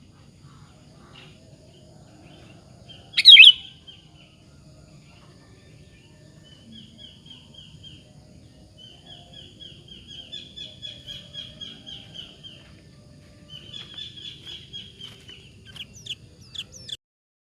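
Sooty-headed bulbul giving one loud, rising whistled phrase, followed by fainter runs of rapid repeated chirping notes and a few short sharp chirps near the end, before the sound cuts off.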